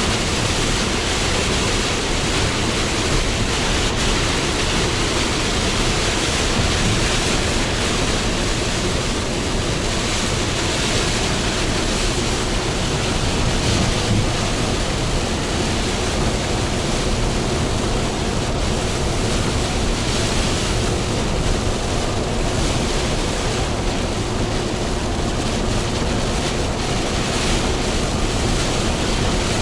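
Steady rushing noise of a Hino Profia heavy truck driving on a rain-soaked expressway: tyres throwing spray and rain hitting the truck, with a low engine drone underneath.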